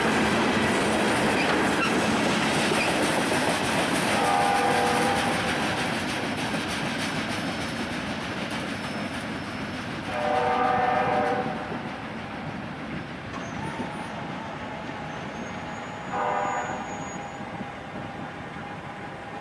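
A train running past on the rails, its rumble slowly fading, while a locomotive air horn sounds three short chords: about four seconds in, about ten seconds in, and about sixteen seconds in.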